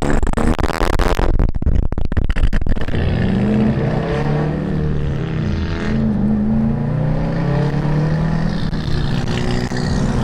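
A car engine revving, its pitch rising and falling several times, with a run of sharp clicks about one to two seconds in.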